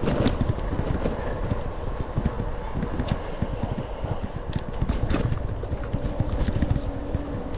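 Wind buffeting the microphone and tyre noise from a bicycle rolling along a road, with a few faint clicks.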